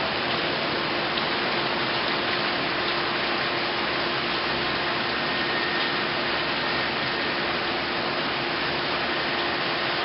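Heavy rain pouring down steadily in a tropical-storm downpour, an even rushing hiss with a faint steady hum underneath.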